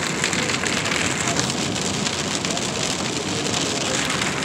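Rain hitting the car's windshield and body while driving, heard from inside the cabin, with wet tyre noise from the road underneath: a steady hiss with many small taps.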